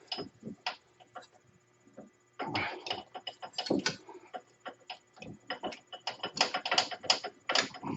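Irregular metallic clinks and knocks of an ATV front axle being worked and shoved into the front differential, with the hub still attached. A few scattered knocks, then a dense clatter starting about two and a half seconds in.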